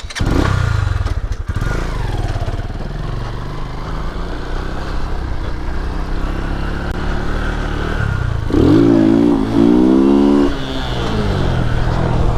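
Lifan KP Mini 150's single-cylinder four-stroke engine running as the small motorcycle is ridden off-road, with the engine revving up and down for a couple of seconds about two-thirds of the way through.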